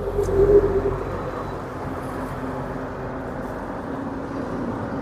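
Steady vehicle engine hum with a faint steady tone, a little louder in the first second.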